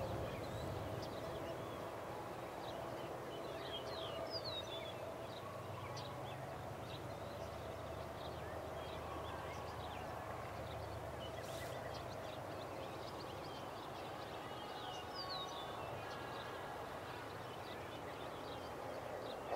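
Faint outdoor field ambience with birds chirping now and then over a low steady background hum.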